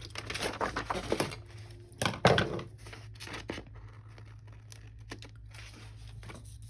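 Paper sticker sheets rustling and crinkling as stickers are peeled and handled, busiest in the first second, with a louder crinkle about two seconds in, then quieter scattered handling sounds.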